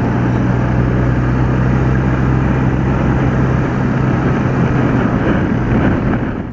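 BMW R80RT motorcycle's air-cooled flat-twin engine running at a steady speed on the move, a steady low engine note under a constant rush of noise.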